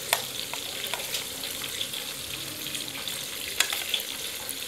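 Pork frying in a pot with onion and garlic-ginger paste, sizzling steadily with crackles and a few sharper pops.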